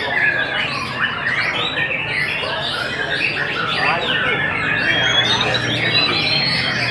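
Many songbirds singing at once: a dense, unbroken mass of overlapping chirps, trills and whistles.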